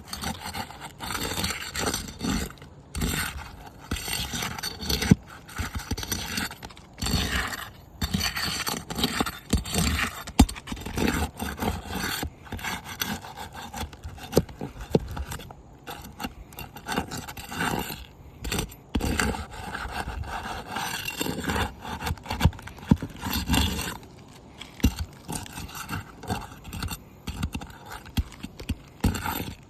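Asphalt roof shingles being scraped and pried loose: irregular scraping and rubbing strokes with scattered sharp clicks.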